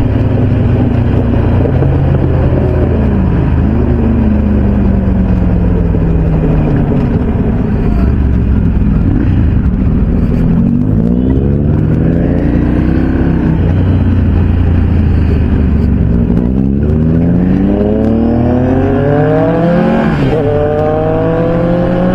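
Motorcycle engines running at highway speed: a steady engine drone, with the pitch rising several times as a bike revs up through the gears and falling off again.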